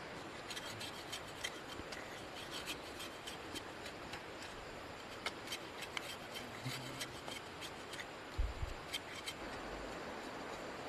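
Irregular rubbing and crackling of plant material being worked by hand, over a steady background hiss, with one dull thump about eight seconds in.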